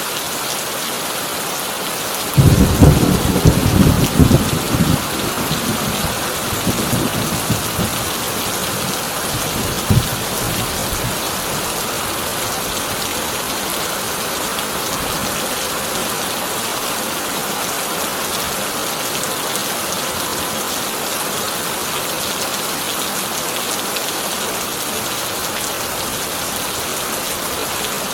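Heavy rain drumming steadily on a corrugated tin roof. A thunderclap breaks about two seconds in and rumbles away over several seconds, with one more short crack of thunder near ten seconds.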